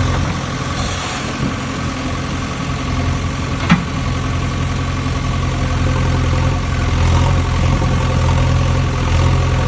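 Heavy diesel engine of an earthmoving machine running steadily at low revs, with a single sharp metallic knock about four seconds in.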